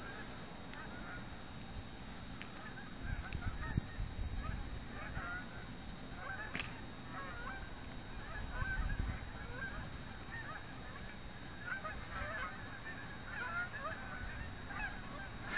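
A flock of geese honking, many short calls overlapping throughout, fairly faint, with low gusts of noise under them now and then.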